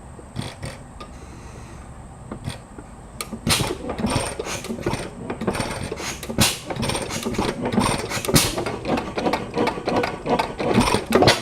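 Galloway 5 horsepower stationary engine being started: a few single clicks, then from about three seconds in a fast, irregular mechanical clatter that grows louder toward the end.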